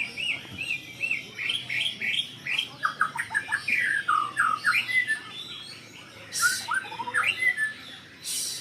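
White-rumped shama singing a fast, varied song, worked up at the sight of a rival. It opens with a run of repeated arched whistles, then a burst of quick falling notes, with two short harsh hissing notes in the second half.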